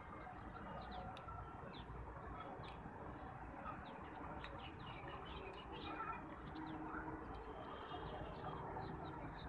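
Birds chirping outdoors: many short, high chirps scattered through, over a low steady background hum.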